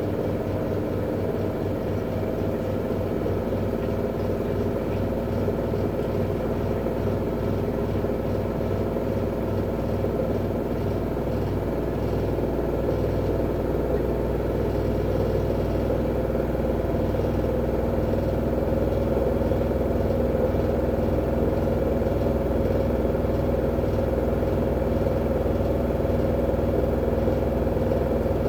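V-Zug Unimatic SL washing machine (2011) spinning its drum: a steady motor hum with a pulsing low throb, growing slightly louder toward the end.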